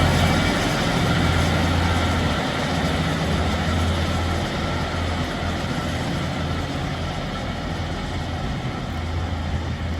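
Diesel multiple-unit train running, with a steady low engine drone over a continuous rumble and rush of noise.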